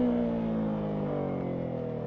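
Yamaha MT-03 motorcycle engine with the throttle rolled off, its pitch falling slowly and steadily as the revs drop on deceleration.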